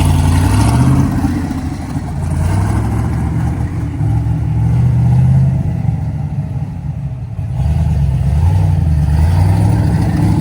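Loud car engines running at low revs, a deep rumble whose pitch rises and falls as the throttle is blipped.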